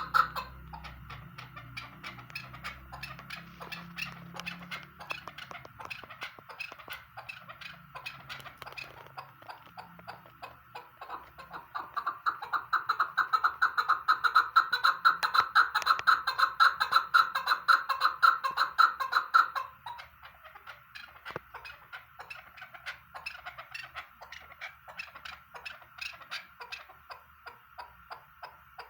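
Chukar partridge calling: a long run of rapid, repeated short notes, loudest from about twelve to twenty seconds in, softer before and after.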